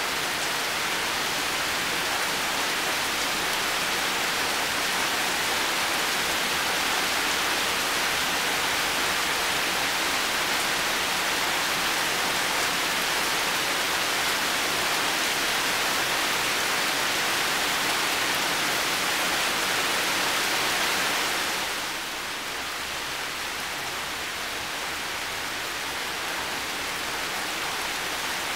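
Heavy rain falling steadily in a dense, even hiss. About 22 seconds in it suddenly eases a little and sounds duller, then carries on steadily.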